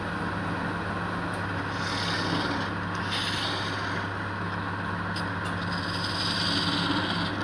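Wood lathe running with a steady motor hum, while a turning tool cuts the spinning wood in repeated hissing bursts.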